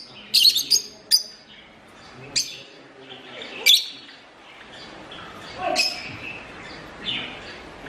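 Parrots chirping: short, sharp high-pitched chirps, a quick cluster in the first second and single ones scattered after.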